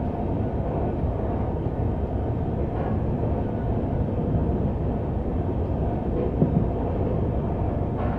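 Passenger train running at speed, heard from aboard: a steady rumble of wheels on the track, with a couple of brief knocks about six and a half seconds in.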